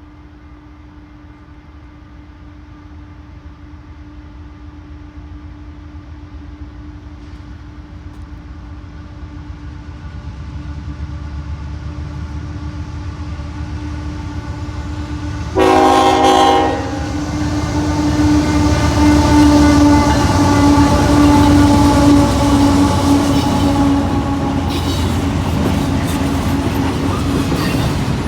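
Freight train with Union Pacific diesel locomotives approaching, growing steadily louder with a steady tone over the engine noise. About halfway through, a short loud blast of the locomotive horn, then the locomotives run past with wheel-on-rail clatter.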